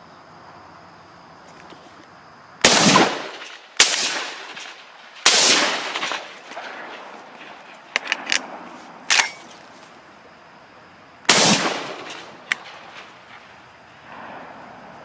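Shotgun firing at crows: three shots in quick succession, a few sharp clicks, then a fourth shot several seconds later, each report trailing off in an echo.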